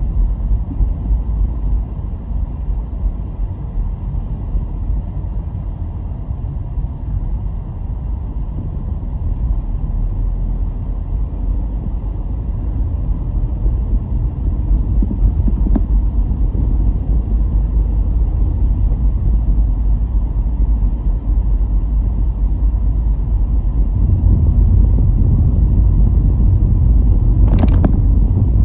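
Car driving along a road: a steady low rumble of engine and tyre noise that grows louder near the end, with a brief sharp knock shortly before the end.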